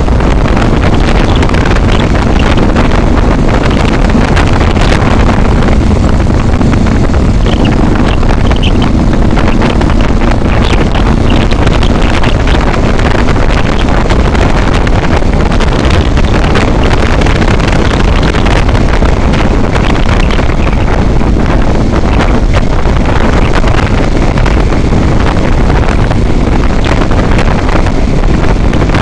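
Heavy wind buffeting on the microphone of a vehicle travelling at speed on a highway, loud and steady, with a faint engine drone underneath for part of the time.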